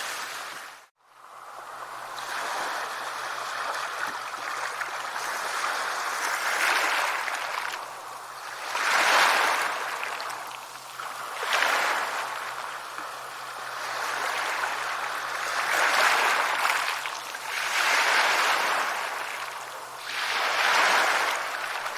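Sea waves breaking and washing on a shore, swelling and ebbing every two to three seconds. The sound cuts out briefly about a second in and fades back up.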